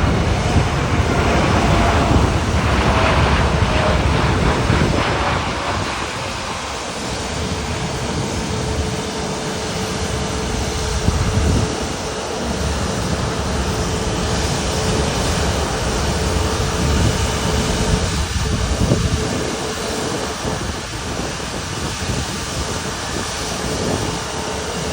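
Boeing 747-8 freighter's four GEnx jet engines rumbling as it comes in to land, loudest for the first few seconds and then a steadier roar with a faint steady whine. Wind buffets the microphone.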